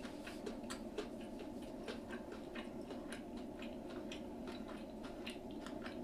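Faint chewing of fried food: irregular small mouth clicks and smacks, several a second, over a steady low background hum.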